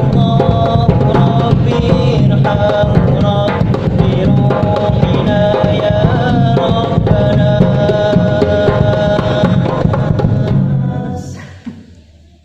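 Hadroh music: hand drums, darbuka among them, playing a dense rhythm under a sung melody. It fades out about eleven seconds in and ends near the close.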